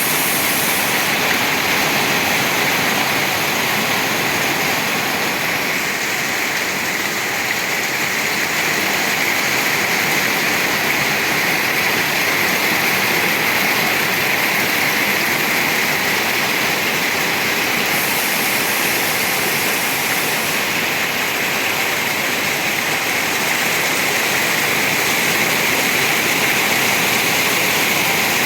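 Heavy rain falling, a dense steady hiss without let-up.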